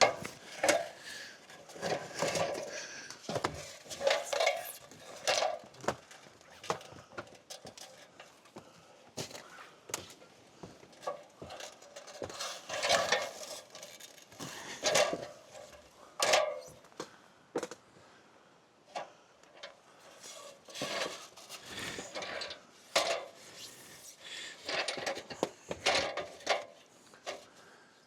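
Irregular clinks, clanks and knocks of hardware and wood being handled, in short uneven bursts, as rigging gear and a ladder are set up on a fallen tree.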